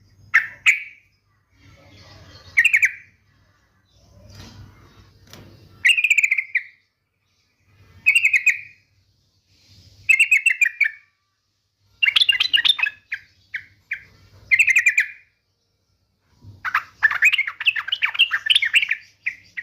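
Yellow-vented bulbul (trucukan) singing: short bubbly chattering phrases about every two seconds, with a longer run of calls near the end.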